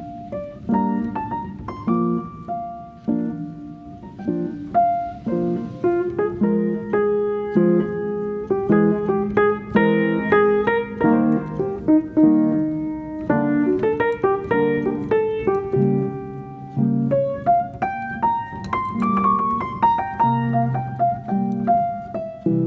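Background piano music playing a melody over chords.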